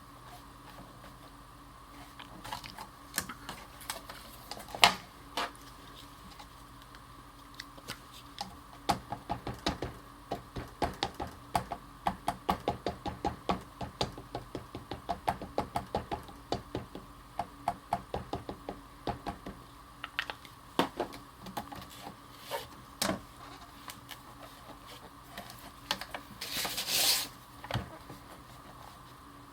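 Ink pad being dabbed against a rubber stamp to ink it: quick light taps at about four a second through the middle, with a few louder single knocks and a brief rustle near the end.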